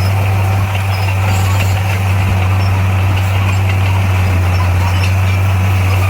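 Heavy earthmoving machine's diesel engine running steadily at a constant low speed, a deep unchanging drone.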